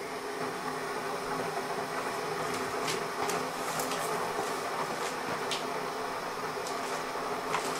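Keurig K-Compact single-serve coffee maker humming steadily while it heats its water after being switched on, with a few faint ticks; the noise stops once the brewer is ready.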